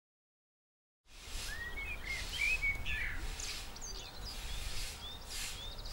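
Silence for about a second, then outdoor ambience: small birds chirping again and again in short rising and falling notes, over a low steady rumble.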